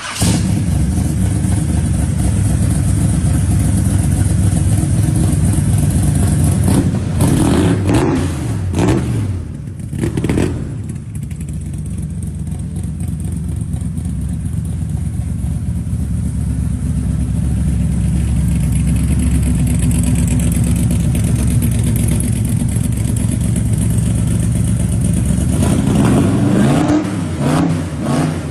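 Big-block Chevrolet V8 in a 1941 Willys coupe hot rod, running loudly at idle. The engine is revved a few times about a third of the way in, settles back to a steady idle, and is revved again near the end.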